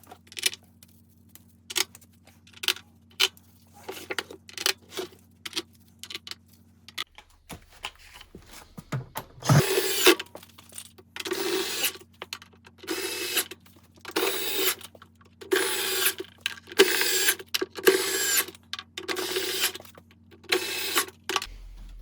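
Scattered clicks and taps of parts and tools being handled, then a handheld power tool, such as a drill or screwdriver, run in about ten short bursts of half a second to a second each, as when driving screws.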